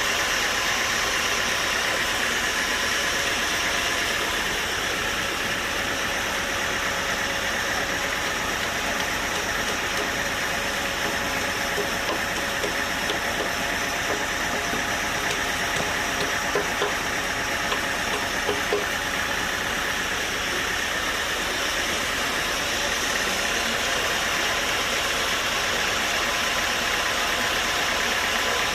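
Sawmill machinery running steadily: an engine-driven saw giving a constant hum and whine, with a few faint knocks around the middle.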